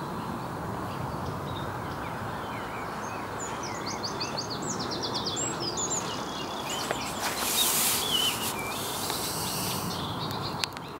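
Small birds chirping and singing, including a quick run of falling notes about four to six seconds in, over a steady outdoor wash of noise. A louder rushing noise swells for a few seconds near the end.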